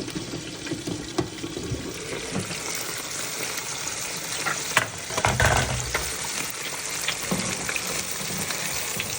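Floured chicken cutlets frying in hot oil, a steady sizzle with scattered clicks. There is a heavier knock about five seconds in.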